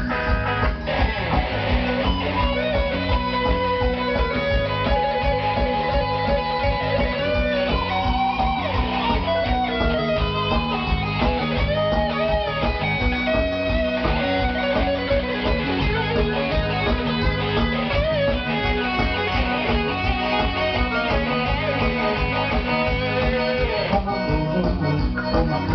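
Live band music with a steady, fast beat and a lead guitar playing melody lines over bass and drums.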